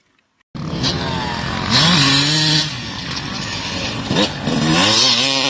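Motocross dirt bike engine revving hard, starting suddenly about half a second in; its pitch drops and climbs again twice as the throttle is worked.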